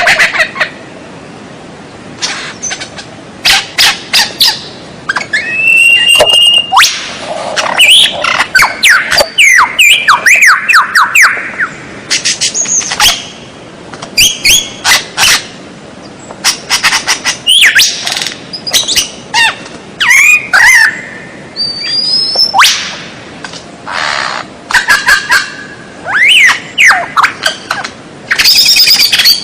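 White-rumped shama (murai batu) singing: a varied string of short phrases mixing clear whistles, quick rising and falling sweeps and sharp clicky chatter, with brief pauses between bursts.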